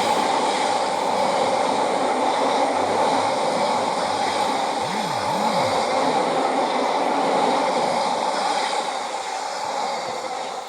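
Train passing at speed: a steady rushing noise of wheels on rails that eases off slightly near the end.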